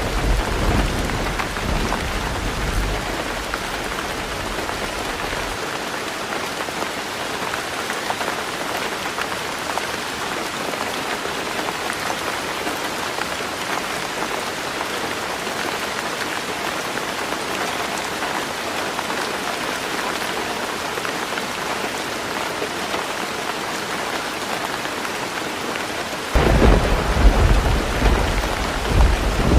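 Heavy rain falling on a tin roof, a steady hiss throughout. A low thunder rumble at the start dies away after about five seconds, and a new roll of thunder breaks in suddenly near the end.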